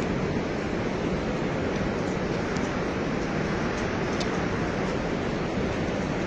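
Steady rushing noise that does not rise or fall, with no distinct events in it.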